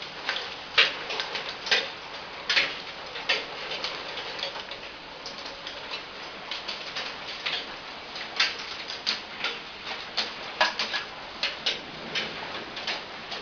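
Heavy rain hissing steadily, with water drops falling and splashing in sharp, irregular clicks, several a second at times.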